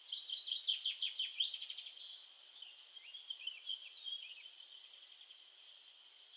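A small songbird sings two quick phrases of rapid chirps, the second beginning about two and a half seconds in, over a steady high-pitched buzz of insects.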